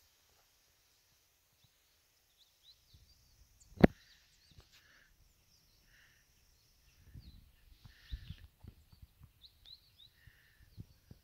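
Small birds chirping in pine woods: many short, high chirps scattered throughout. A single sharp knock about four seconds in is the loudest sound, and low rumbles on the microphone come a little past seven seconds.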